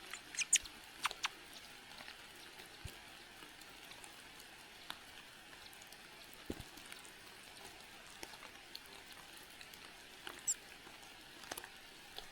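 A few short, faint, high-pitched bird chirps, near the start and again about ten seconds in, amid scattered light clicks and a low hiss.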